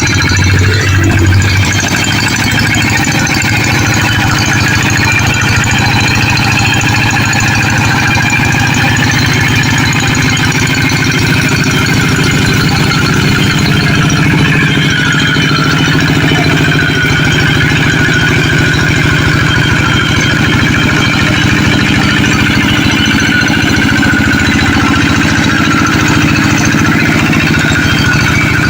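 Tractor engine running steadily with a rapid, even beat, a little louder about a second in.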